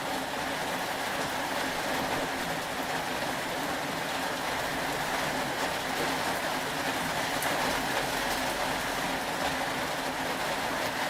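Steady rain: an even hiss that does not change, with a few faint drop ticks.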